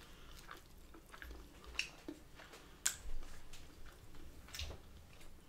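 A person chewing a mouthful of grilled chicken in flatbread. The chewing comes with soft wet mouth clicks and smacks, sharper ones about two, three and four and a half seconds in.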